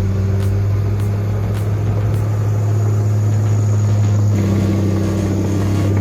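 Bulldozer's diesel engine running steadily with a low drone, its note changing slightly about four seconds in.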